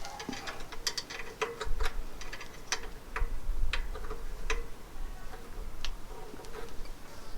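Irregular sharp metallic clicks of an Allen key working the bolts of a bicycle's lower brake assembly, roughly one a second, with some closer together.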